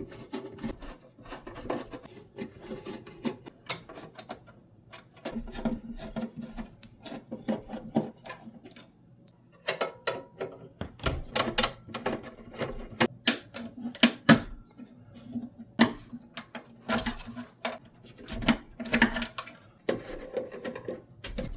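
Hand work on a tankless water heater's sheet-metal casing: screws being taken out and the cover handled, giving irregular clicks, knocks and rubbing of metal parts, with a few short stretches of a steady low hum.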